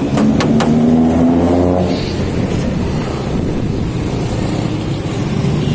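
Fuel-injected Honda Accord four-cylinder engine running: it is revved, its pitch rising slightly for about two seconds, then drops back to a steady rumbling run.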